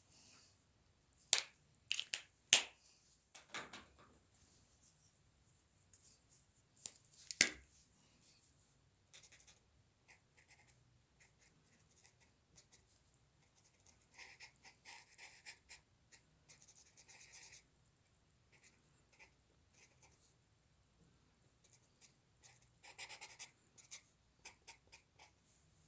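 A drawing tool scratching on paper in short runs of strokes during hand drawing, with a few sharp clicks in the first eight seconds.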